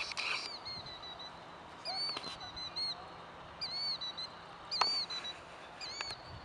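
A bird giving repeated short, sharp alarm calls, each a quick arched note, about one a second. It is scolding an intruder near its nest on the ground.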